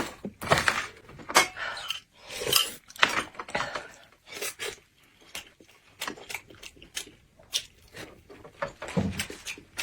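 Close-miked eating sounds: irregular crunches and clicks, busy through the first few seconds and sparser after that.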